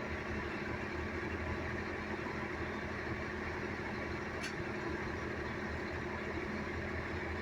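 Vehicle engine idling steadily, with one faint click about four and a half seconds in.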